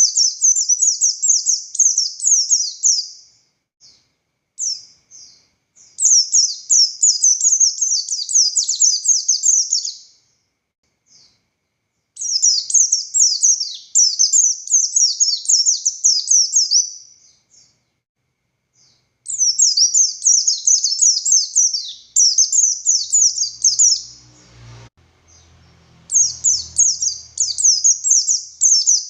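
A buxtoni white-eye (pleci) singing: long, high phrases of rapid-fire falling notes, each lasting a few seconds, with short pauses between them. A brief low rumble comes between phrases near the end.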